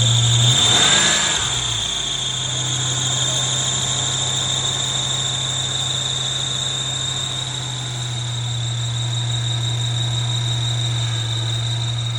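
1992 Mustang GT's 5.0 V8 running at a steady idle, with a steady high-pitched whine over it. There is a brief uneven moment about a second in.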